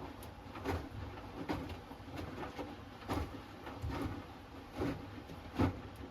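Hoover Axi 10 kg front-loading washing machine tumbling wet laundry in its drum during the wash phase: irregular dull thuds and sloshes, about one every second or less, over a low steady hum.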